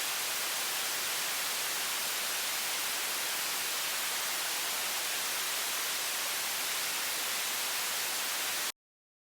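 High-pressure water faucet stream running as a steady, even hiss, heavy in the highs and thin in the lows, cutting off suddenly near the end.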